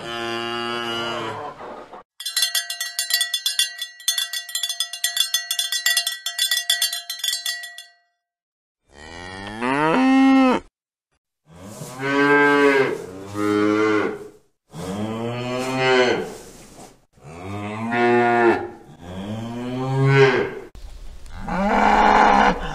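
Cattle mooing: a run of separate long moos from different cows, several rising in pitch. About two seconds in, bells clang in rapid, even strokes for about six seconds before the moos resume.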